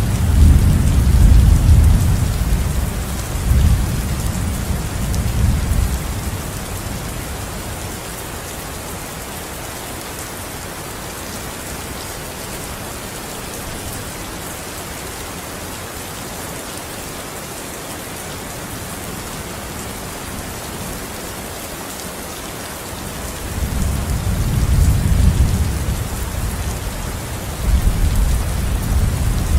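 Steady rainfall, with rolling thunder rumbling over it in the first few seconds and again near the end.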